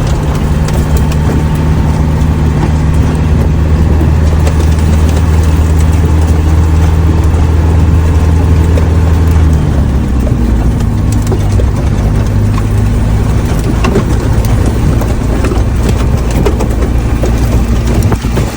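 Large truck's diesel engine running under way, a loud steady low drone over road and tyre noise. The engine note drops and changes about ten seconds in.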